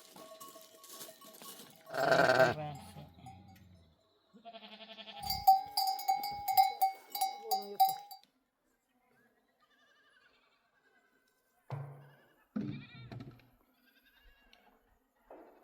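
Flock of sheep bleating, with an animal's neck bell clinking in a quick run of strokes in the middle.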